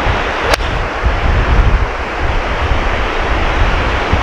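Wind buffeting the microphone with a steady low rumble and hiss, and a single sharp click about half a second in: an iron club striking a golf ball.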